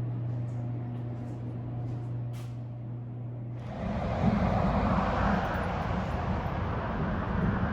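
A steady low hum, then about three and a half seconds in a sudden change to a louder, even rush of road traffic noise.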